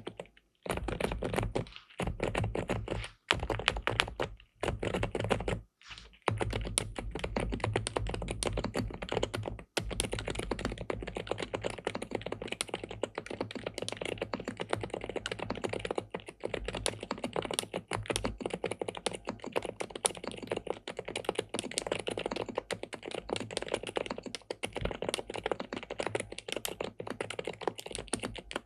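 Fast typing on an SPM PL87W Mongdol 87 tenkeyless mechanical keyboard with linear switches, a dense run of keystrokes broken by a few short pauses in the first ten seconds, then continuous.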